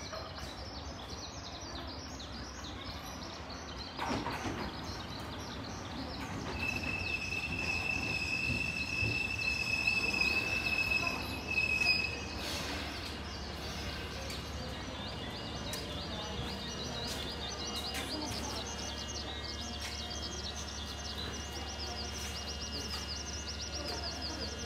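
Chichibu Railway 7500 series electric train pulling into the station, its running noise growing louder with a steady high-pitched squeal as it slows, cutting off as it stops about twelve seconds in. Birds chirp throughout, more busily once the train is standing.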